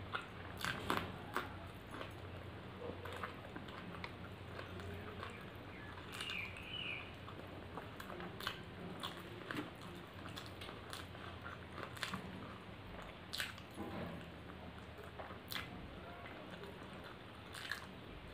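Close-miked chewing and mouth sounds of a person eating rice and mutton curry by hand: soft wet chewing with scattered sharp clicks and smacks, picked up by a clip-on microphone.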